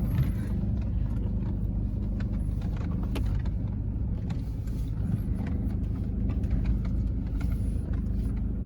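Vehicle driving with its engine running steadily as a low rumble, with scattered knocks and rattles throughout.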